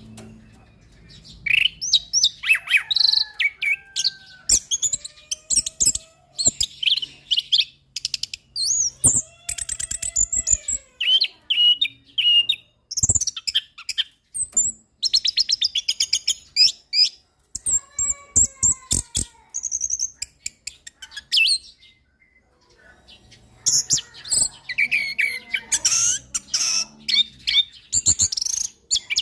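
Orange-headed thrush singing a fast, varied song of gliding whistles, trills and rapid clicking notes, with a pause of about two seconds past the middle.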